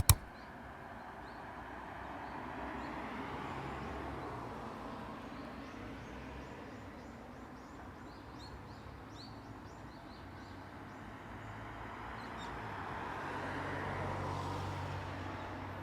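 Steady background noise that swells twice, with faint high chirps scattered through it.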